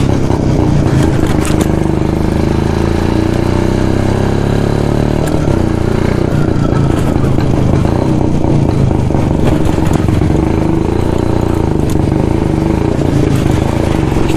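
Single-cylinder 250 cc two-stroke engine of a 1972 Jawa motorcycle with twin exhausts, running steadily while the bike is ridden, its engine note holding nearly level.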